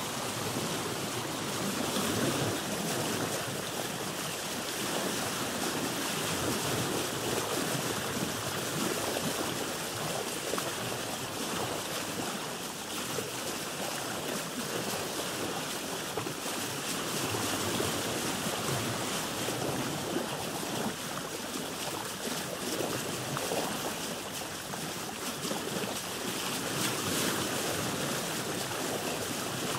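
Ocean waves heard from a boat: a steady wash of sea water with wind, swelling and easing gently.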